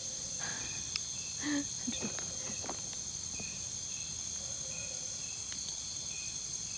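Night insect chorus: a steady high-pitched trill with short chirps repeating about once a second, and a few faint clicks.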